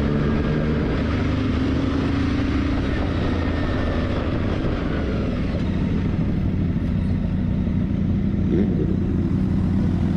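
Motorcycle engine running, a steady low rumble, with an engine note that fades away about three seconds in.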